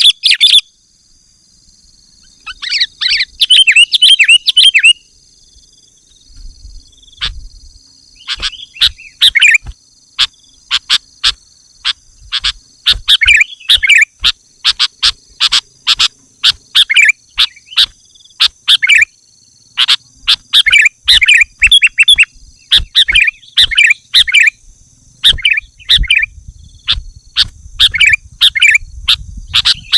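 Sooty-headed bulbul (kutilang) calling, the calls of a bird challenging a rival. A dense burst of chattering comes a few seconds in, then after a short pause a long run of short, sharp chirps, several a second, broken by brief gaps.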